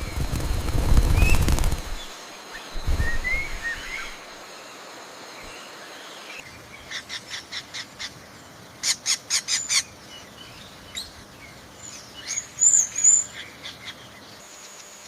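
Bird wings flapping in a loud rush lasting about two seconds, with a shorter flutter a second later, among short chirps. Later come runs of rapid, evenly spaced clicking notes, the loudest run about nine seconds in, and a few more chirps near the end.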